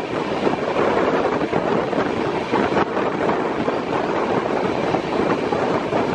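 LHB passenger coach in motion: a steady, loud rumble of wheels running on the rails.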